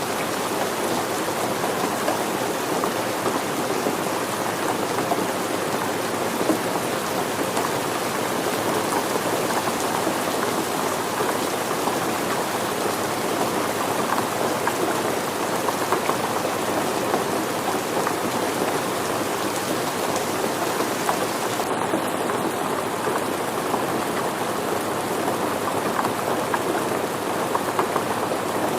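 Steady rain falling, with the patter of many drops hitting surfaces.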